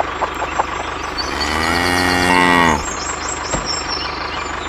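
A motor running steadily, with one drawn-out pitched call lasting nearly two seconds that sags and rises in pitch and cuts off suddenly.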